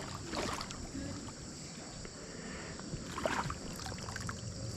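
Shallow creek water splashing a few times, the biggest splash about three seconds in, as a hooked rock bass is brought into a landing net.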